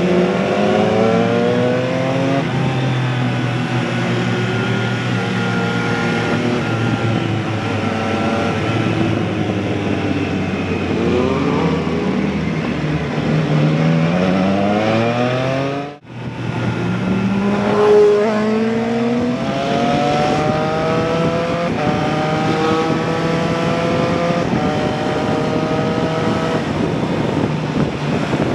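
Motorcycle engine accelerating hard and shifting up through the gears, its pitch rising and then dropping at each shift, again and again. The sound breaks off for a moment about halfway through, then picks up again.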